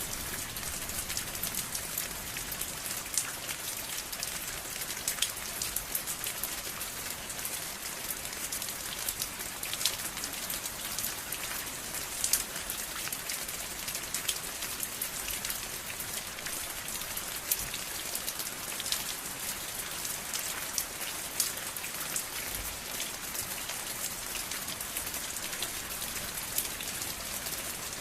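Steady rain falling, a dense hiss with many individual drops pattering on a surface.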